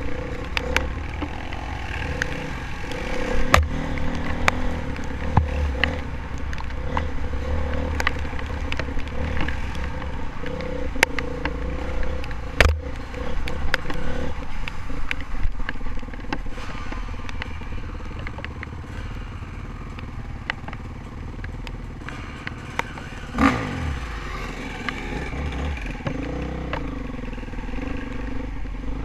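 Honda CRF450R dirt bike's four-stroke single-cylinder engine running steadily on a trail ride, with frequent short knocks and clatter. Its revs rise briefly about four-fifths of the way through.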